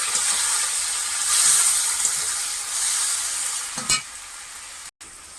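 Chopped tomato, green chillies and whole spices sizzling loudly in hot oil in a kadai as they are stirred. A single knock comes near the end, after which the sizzle is much quieter and cuts out for a moment.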